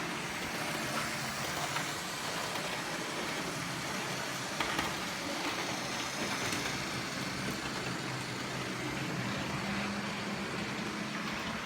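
OO gauge model trains running on the layout: a steady whir of small electric motors and the rumble of wheels on track, with a few light clicks.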